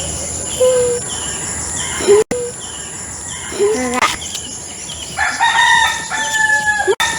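A rooster crowing, one long call in the second half, with shorter calls and clucks from the fowl before it. A steady high insect buzz runs underneath.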